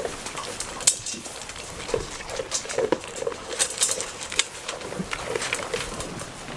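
Rain pattering and dripping, with irregular taps and drips at uneven intervals throughout.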